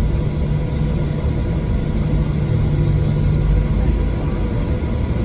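Steady cabin drone of a Boeing 737-700 airliner heard from inside the cabin: its CFM56-7B jet engines and airflow making a constant low hum with a faint steady whine above it.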